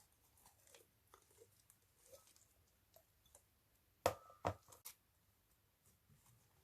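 Slime being handled and mixed by hand, with faint, small sticky crackles. Then three sharp taps or clicks come in quick succession about four seconds in.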